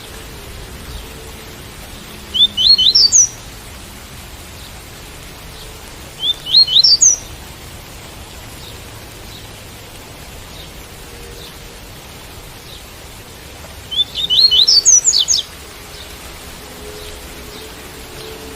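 Double-collared seedeater (coleiro) singing its tui-tui song: three short phrases of quick rising notes, the last one longer, over the steady hiss of rain.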